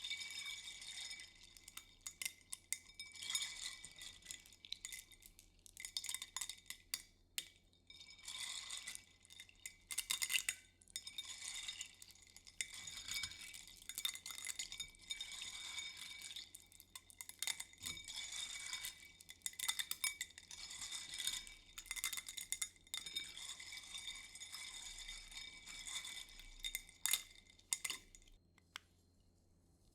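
Light, high-pitched clinking and scratching on small hard objects in irregular flurries, stopping about a second before the end.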